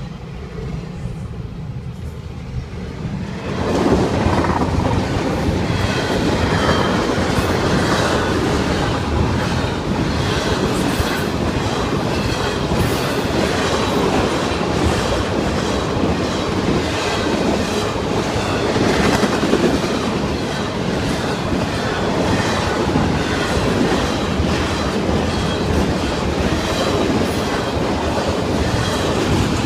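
A train rolling past close by, its wheels clicking rhythmically over the rail joints; the sound swells suddenly to full loudness about three and a half seconds in and stays steady.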